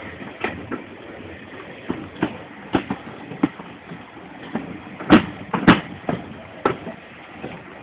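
Steam-hauled passenger train running, heard from a carriage window: sharp wheel clacks over rail joints at uneven intervals, several in close pairs, over a steady running rumble.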